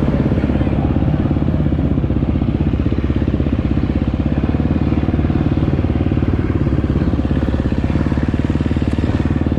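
Motocross bike engine idling steadily at a constant speed, its fast, even firing pulses unchanged throughout, with no revving.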